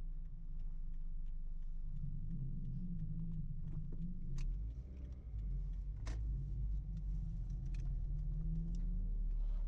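Low, steady vehicle rumble, with a few sharp clicks about four and a half and six seconds in.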